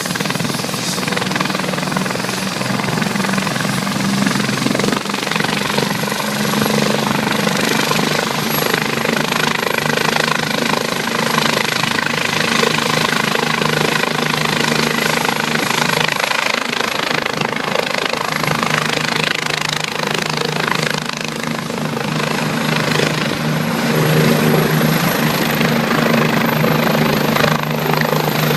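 Doctor helicopter (air ambulance) running loudly and steadily, its engines and rotor sounding together, with a thin high whine that rises slightly near the end.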